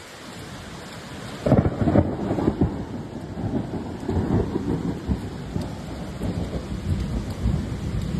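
Storm noise: heavy rain with low, uneven rumbling that starts suddenly about a second and a half in and keeps going.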